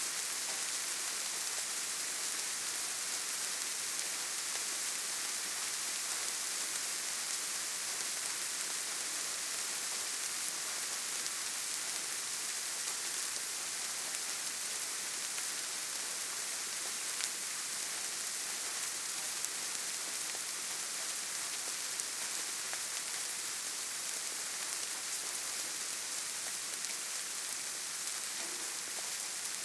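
Steady rainfall, an even hiss, with a few louder single drops ticking out now and then.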